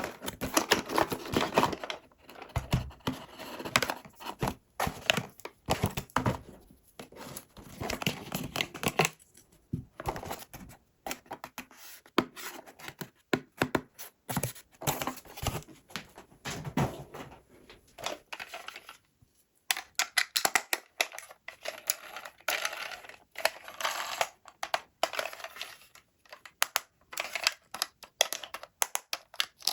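Toy packaging being handled and opened by hand: irregular tearing and crinkling with many short clicks and taps.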